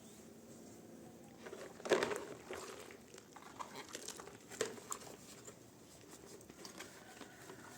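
Rustling and a few light knocks of things being handled, the loudest knock about two seconds in and another a little past halfway.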